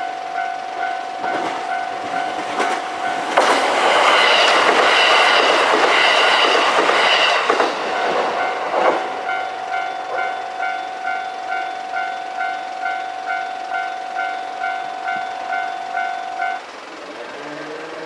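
A Japanese level-crossing warning bell dings in a steady rapid rhythm while a KiHa 189 series diesel limited express rushes through the crossing. The train is loud for about four seconds, starting a little after three seconds in, and drowns the bell while it passes. The bell keeps ringing after the train has gone and cuts off suddenly about a second and a half before the end.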